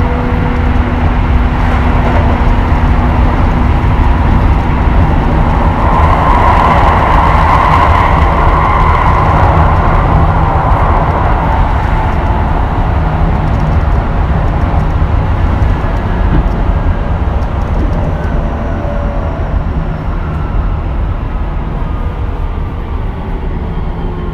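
Keisei 3000 series electric train running on the rails, a steady rumble with a hiss of wheel and rail noise. From about two-thirds in, the motor whine slides down in pitch and the running noise eases off as the train slows.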